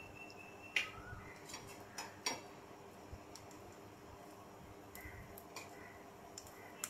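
A few light clicks and taps of a utensil against a frying pan, about a second in, twice around two seconds in and once near the end, over quiet room tone with a faint steady hum.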